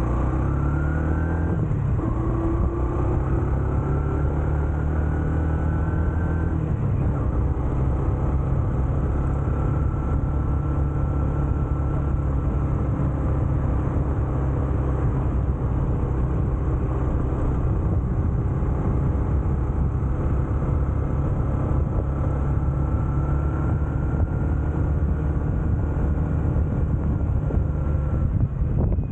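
Honda CB125F's small single-cylinder four-stroke engine running under way. Its pitch dips and climbs again in the first couple of seconds, then holds fairly steady while cruising.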